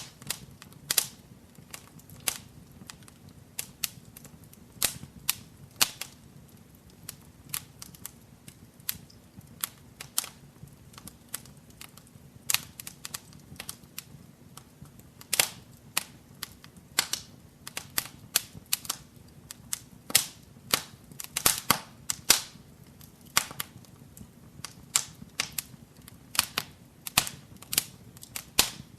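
Wood fire burning in a fireplace, crackling with irregular sharp pops and snaps, some coming in quick clusters, over a soft low steady rumble.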